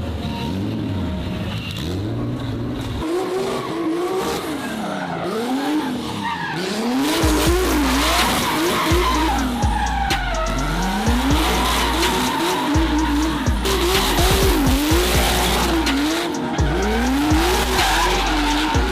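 BMW drift car's engine revving up and falling back over and over as it drifts, with tyres squealing. A music track with a heavy bass comes in about a third of the way through.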